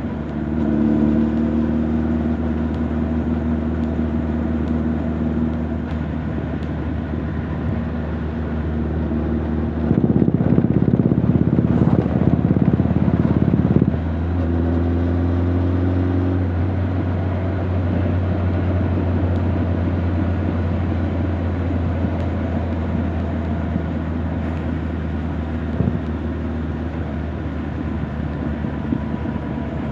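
Honda CB1300 Super Bol d'Or's inline-four exhaust running at a steady cruise, heard through a microphone in the rider's jacket back pocket, with no wind noise. About ten seconds in the sound turns louder and rougher for some four seconds, then settles into a steady deep drone.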